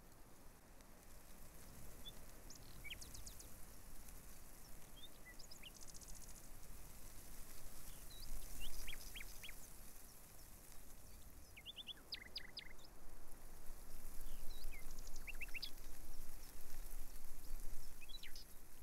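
Small birds chirping in short, scattered notes, some in quick runs of three or four, over a steady background noise.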